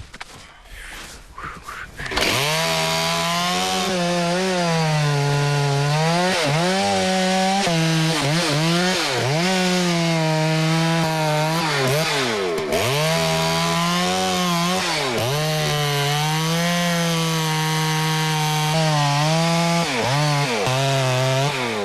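Two-stroke chainsaw cutting into a tree trunk at high revs. Starting about two seconds in, its pitch dips sharply again and again as the engine bogs under load in the cut, then climbs back.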